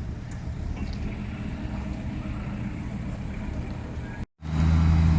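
Off-road car engines running with a steady low hum; after a sudden break about four seconds in, a louder, closer engine hum takes over.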